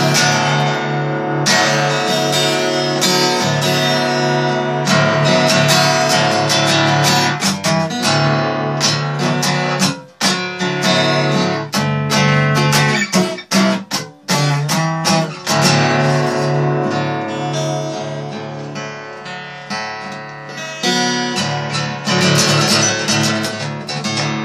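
Acoustic guitar being strummed, chords ringing with a steady run of strokes and a few brief breaks.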